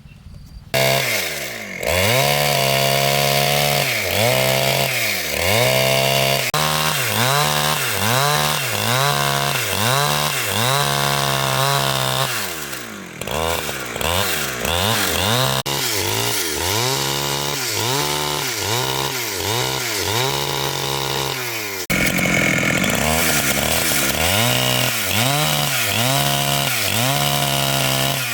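Chainsaw engine starting up about a second in, then running hard with its pitch dipping and climbing again about once a second as it revs and bogs under load cutting wood.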